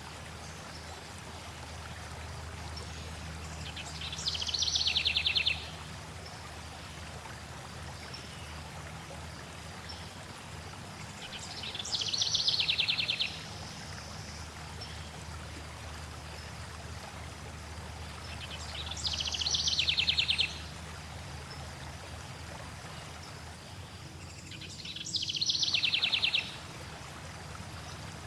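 Steady flowing water, with a songbird singing a short, rapid trilled phrase four times, about every seven seconds. The phrases are the loudest thing heard.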